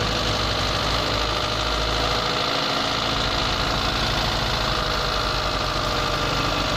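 Proton Waja's 1.6-litre 4G18 four-cylinder engine idling steadily under the bonnet. Its idle runs low and unstable, which the mechanic puts down to a likely faulty idle stepper motor.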